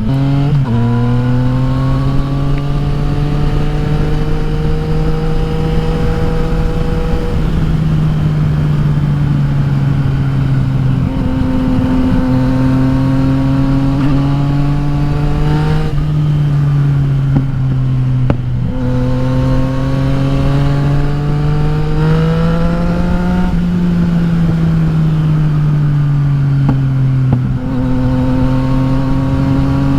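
Yamaha XSR900 inline three-cylinder engine through an Akrapovic exhaust with no dB killer, running loud and droney while riding. The engine note climbs in pitch and drops again several times as the rider shifts gears and rolls on and off the throttle.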